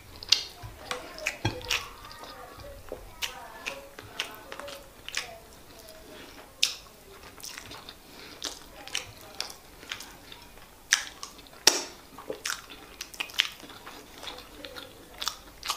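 Close-miked mouth sounds of chewing soft rice and stew: irregular wet smacks and clicks of the lips and tongue, a few a second at their busiest, with the loudest near the end.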